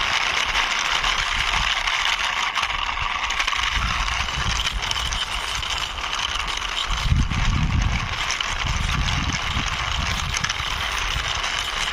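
Toy drum truck pushed along by hand, its plastic wheels rolling with a steady scraping noise and some heavier low rumbles about halfway through.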